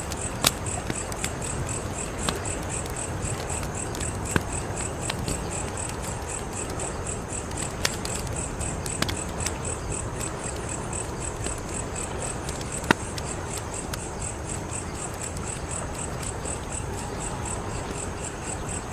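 Wood fire crackling: a steady soft hiss with scattered sharp pops, the loudest about thirteen seconds in. Crickets chirp in a fast, even, high pulse throughout.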